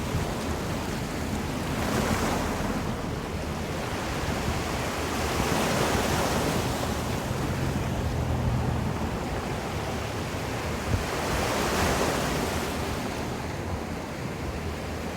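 Ocean surf: waves breaking and washing up the shore, swelling and fading three times, with wind rumbling on the microphone.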